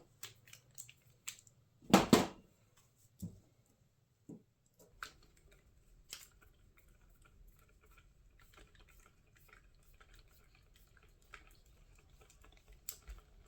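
Small hand tools and parts being handled while screws go back into an RC truck's motor mount: sparse light clicks and taps, with one louder knock about two seconds in.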